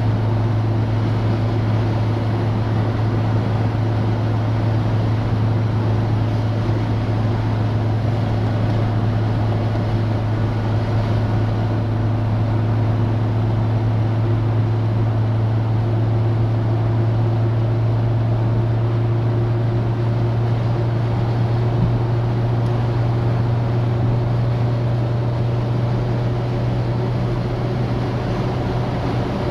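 Citroën DS four-cylinder engine droning steadily as the car cruises, over a continuous hiss of road and wind noise; the engine's pitch rises slightly near the end.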